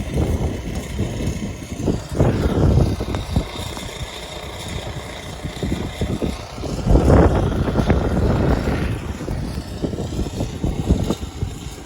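Blizzard wind gusting against the phone's microphone: a low rumbling buffet that surges and eases, strongest about two seconds in and again about seven seconds in.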